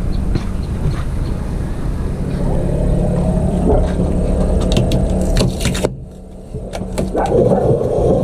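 Electric mixer motor running with a steady hum and scattered clicks and rattles, dropping away briefly about six seconds in.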